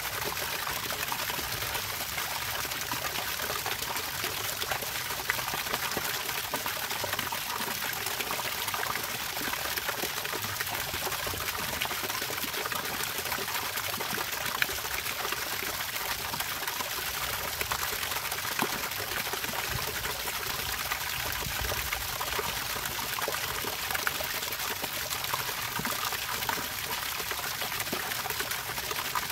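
Water trickling and pouring steadily, an even bright hiss without a break.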